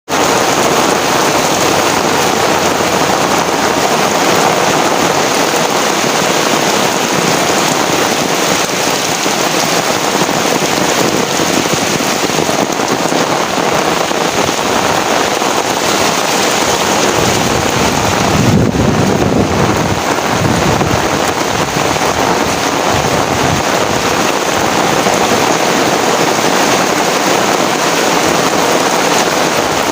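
Heavy rain pouring down steadily, a dense, even hiss of drops hitting surfaces. About two-thirds of the way through, a brief low rumble rises under the rain and fades again.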